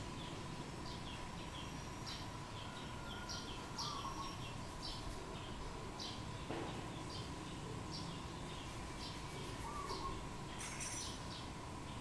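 Small birds chirping in short, high notes, two or three a second, over a faint steady hum.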